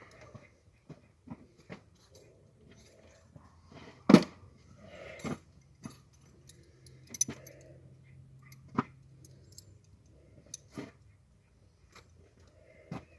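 Scattered clinks and knocks of hand tools and small metal parts being handled. The loudest knock comes about four seconds in.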